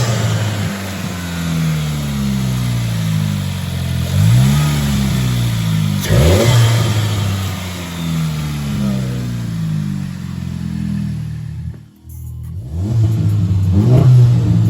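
2020 Volkswagen Jetta GLI's turbocharged 2.0-litre four-cylinder engine, breathing through a newly fitted APR intake, being revved from idle in repeated blips: the pitch rises and falls back several times, with a brief drop-out about twelve seconds in.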